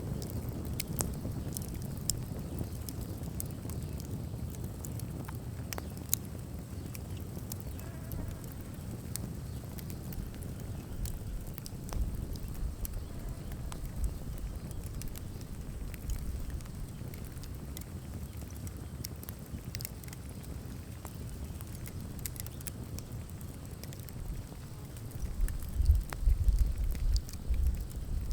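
Wood bonfire burning, with scattered sharp crackles and pops over a steady low rumble of wind on the microphone, which gusts louder near the end.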